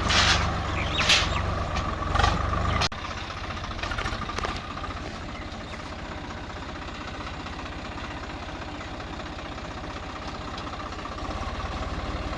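Tractor diesel engine running, louder at first with a few short hissing bursts, then dropping suddenly about three seconds in to a quieter steady run.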